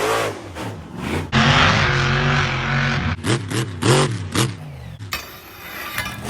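RC monster truck's motor whining, its pitch rising and falling with the throttle: a sustained full-throttle run from about a second in, then several quick throttle blips. A hissing rush follows near the end.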